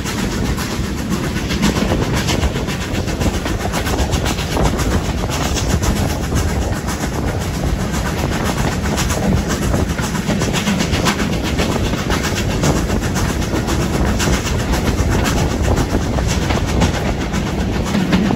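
Steam-hauled passenger train running at speed, heard from an open carriage window: a steady rumble with the wheels clicking over the rail joints and the rush of air past the train.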